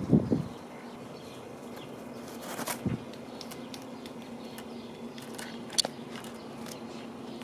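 Birds at a feeder: a quick flurry of wingbeats at the start, then a short rustle, a sharp click and scattered light taps, over a faint steady hum.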